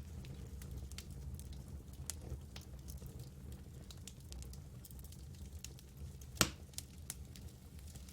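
Campfire burning with a steady low rumble and scattered small crackles and pops, and one sharp, louder pop about six and a half seconds in.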